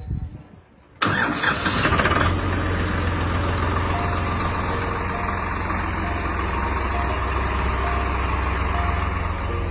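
Swaraj 735 tractor's three-cylinder diesel engine cranking and catching about a second in, then settling into a steady idle.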